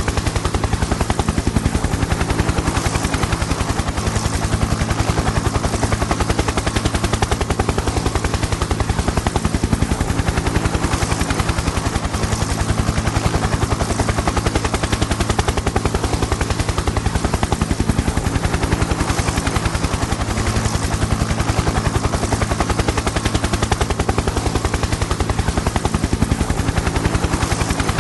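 Helicopter in steady flight: rapid, even chopping of the rotor blades over a constant low engine drone.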